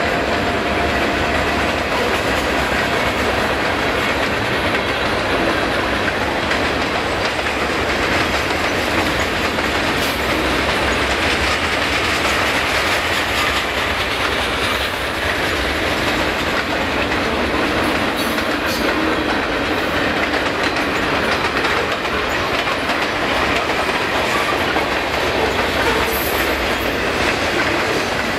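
Freight train cars rolling past at close range: a steady rumble and clatter of steel wheels on the rails, with no locomotive passing.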